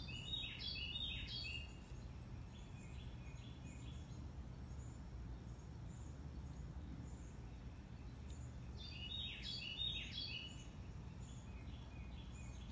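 Outdoor ambience: a songbird sings two short phrases of quick, chirping notes, one at the start and one about nine seconds in, with fainter chirps after each. Beneath it runs a steady high insect drone and low background noise.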